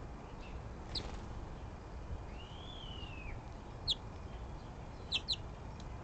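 Birds chirping: a few short, sharp, falling chirps, two of them close together near the end, and one longer arched whistled note in the middle, over a steady low rumble.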